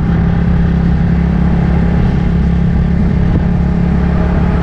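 Road vehicle running steadily on the move, a constant engine drone with road noise.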